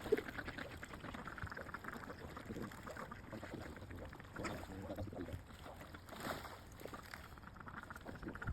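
Water splashing and lapping as swans and ducks paddle up close to feed, irregular and fairly quiet.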